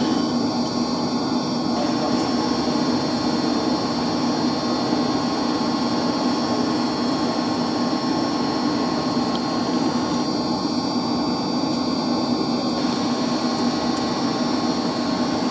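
Steady drone of heating circulation pumps and their electric motors running, a low hum with several constant high-pitched whines over it.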